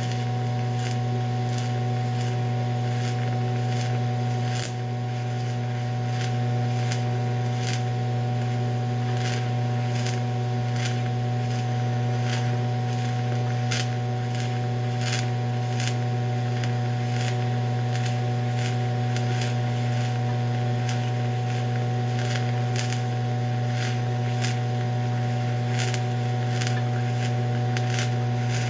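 TIG welding arc on aluminum run on direct current electrode positive: a steady electrical buzz with irregular sharp crackles and snaps throughout.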